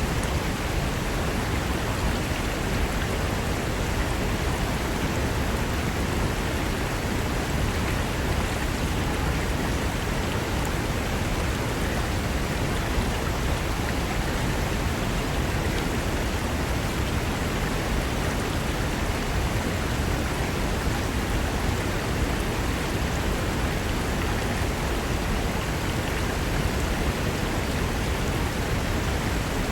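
Mountain river rushing steadily over rocks. It is an even, unbroken wash of water noise in which no single splash stands out.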